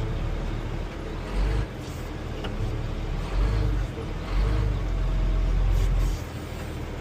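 Large tractor's diesel engine running under load at low speed, its low rumble swelling several times as the throttle is worked, about a second and a half in, near the middle, and for a longer stretch later on.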